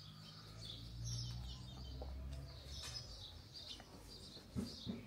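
Small birds chirping faintly, many short calls, over a low steady hum. Two soft knocks come near the end.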